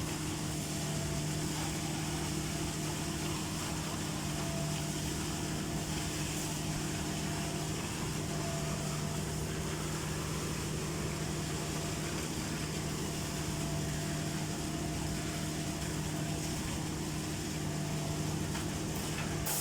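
An engine running steadily at a constant speed, a low, even drone that does not change.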